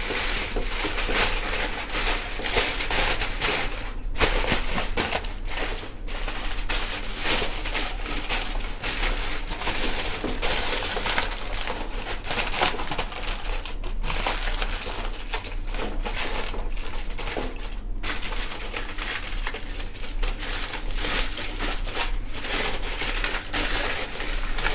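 Aluminium foil being crinkled and pressed down around the rim of a pot to seal it, a continuous crackling with a few short pauses.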